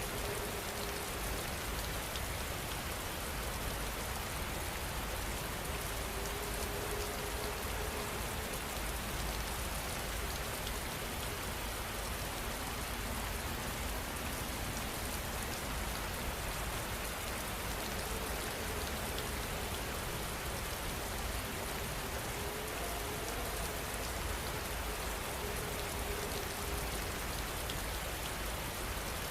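Steady heavy rain falling, a dense even patter of raindrops on surfaces with no breaks.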